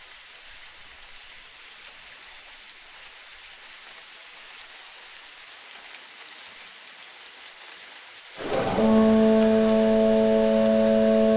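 A soft steady hiss, then about eight seconds in a loud, horn-like chord of several steady tones starts suddenly and holds.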